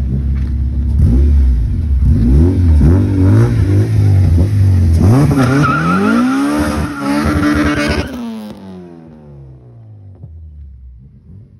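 K20 four-cylinder engine in a K-swapped Honda Civic EG hatchback, revved in several quick blips, then wound up to a high pitch held for about a second and a half. About eight seconds in the revs drop and the engine fades as the car pulls away.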